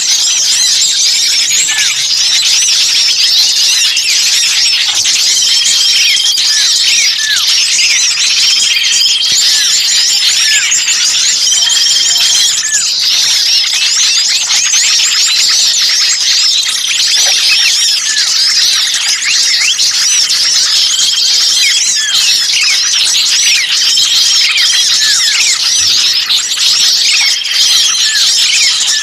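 A bird-lure recording of many small birds calling noisily all at once: a dense, unbroken chatter of high chirps and squeaks. Short, flat, level whistles recur every few seconds. A lure track of this kind is made of agitated, distressed bird calls, which draw other birds in to investigate.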